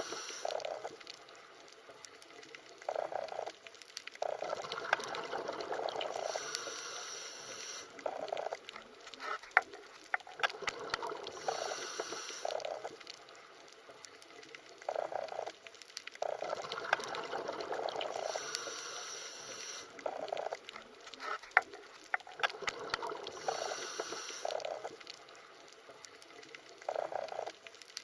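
Underwater water ambience: a muffled rush of water that swells and fades every few seconds, with scattered sharp clicks.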